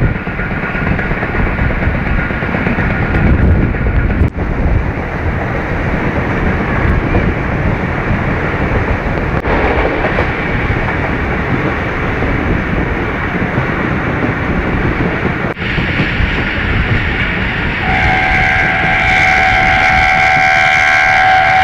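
Pakistan Railways passenger train running at speed, a loud, even rumble of wheels on the track heard from an open carriage window. Near the end a train horn starts and holds a steady chord.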